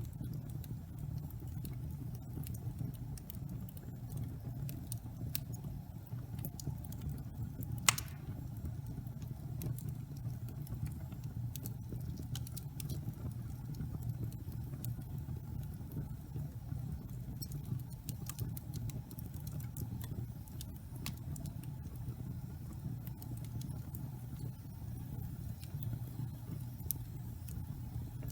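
Log fire burning with a steady low rumble and scattered crackles, and one sharp, louder pop about eight seconds in.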